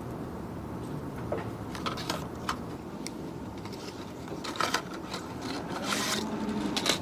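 Hands handling small objects on a desk: a few scattered light clicks and brief rubbing and scraping sounds over a steady low hum.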